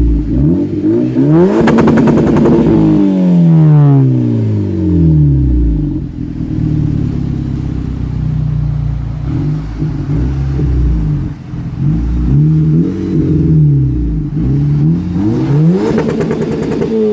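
Exhaust of a turbocharged four-cylinder car with a catless downpipe and Magnaflow cat-back, revving hard. The engine note rises and falls again and again, with a louder noisy burst about two seconds in and again near the end.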